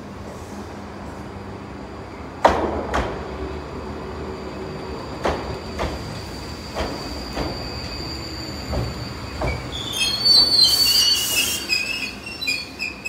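Iyotetsu 610-series electric train pulling slowly into a terminal platform: a steady rolling rumble with clacks in pairs as its wheels pass over joints in the track. About ten seconds in, loud high-pitched squealing starts as the train slows.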